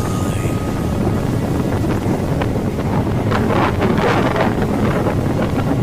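Wind buffeting the microphone of a moving motorcycle, over a steady low rumble from the ride, with crackly gusts in the middle.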